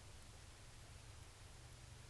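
Near silence: a faint steady hiss with a low hum underneath, and no distinct sounds.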